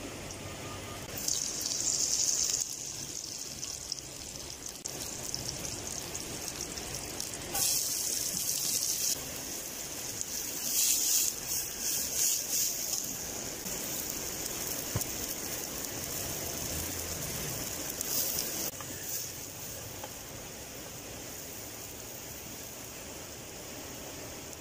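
Sliced onion and shredded cabbage sizzling in hot oil in a frying pan, with several louder bursts of hissing as more goes in and a steadier sizzle between.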